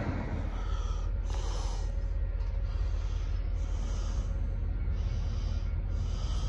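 Low steady rumble of a train, with a soft hiss that swells and fades about once a second.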